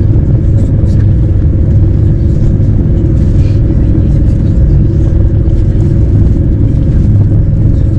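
Passenger train running, a loud steady low rumble.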